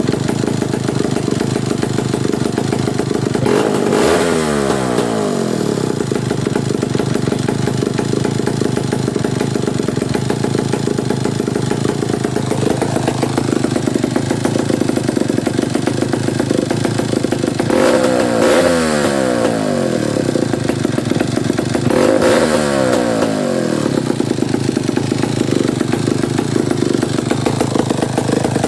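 Old Whitehead 105 two-stroke chainsaw running at idle with a steady, even firing beat. It is revved up three times, once a few seconds in and twice past the middle, each time sweeping back down to idle.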